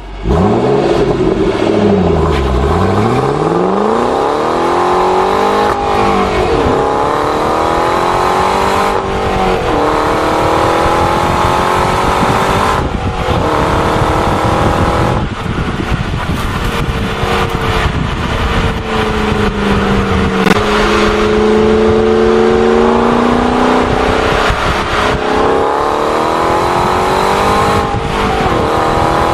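Ford Mustang engine accelerating hard through the gears. The pitch climbs steadily in each gear, then drops sharply at each upshift, several times over.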